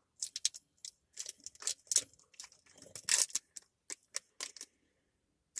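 Plastic candy wrapper being handled and crumpled, crinkling in quick irregular crackles.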